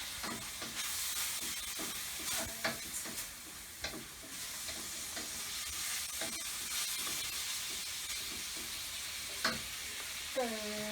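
Fried rice sizzling in a hot pan while a spatula stirs it, with frequent knocks and scrapes of the utensil against the pan.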